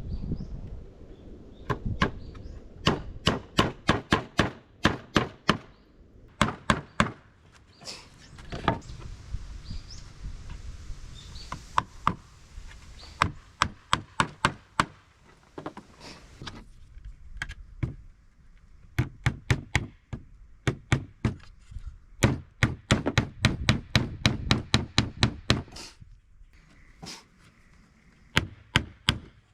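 Rapid series of sharp strikes on wood, about three or four a second, coming in bursts of several seconds with short pauses between.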